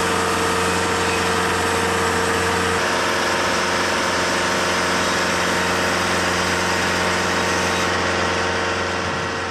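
TimberKing 2520 portable sawmill's engine running steadily, its tone shifting slightly about three seconds in, then fading out near the end.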